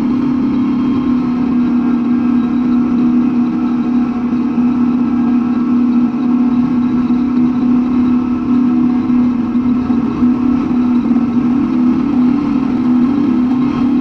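Big Bud 16V 747 tractor's 16-cylinder two-stroke Detroit Diesel engine running steadily, a loud deep drone with no change in pitch.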